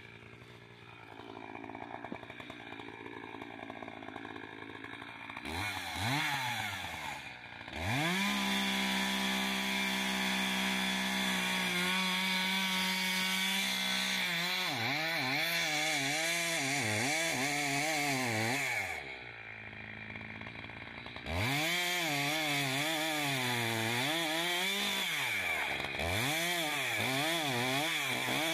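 Chainsaw idling, then revved up and run at full throttle, its pitch wavering up and down as it bogs under load in the cut, which is typical of the back cut in felling an oak. About two-thirds of the way through it drops back to idle for a couple of seconds, then goes back to full throttle and keeps cutting.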